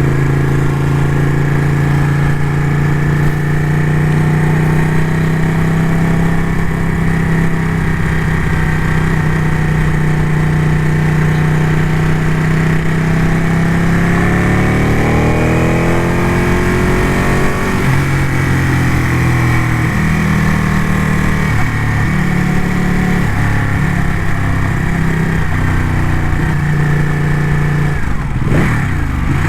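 Ducati motorcycle engine running at a steady cruise, with wind noise, heard from the rider's position. About halfway through the revs climb for a couple of seconds and then drop, followed by a few step changes in engine pitch.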